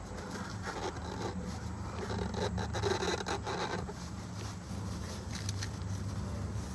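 A new spin-on oil filter being turned by hand onto its threaded mount on the engine, an irregular scraping and rubbing that is busiest in the middle, over a steady low hum.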